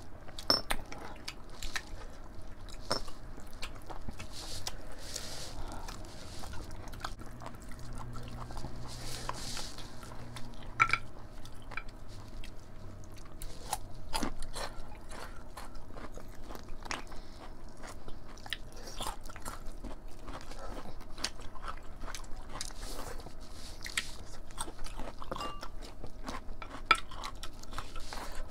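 People chewing and biting mouthfuls of rice and mutton curry, with many short wet mouth clicks and occasional crunches.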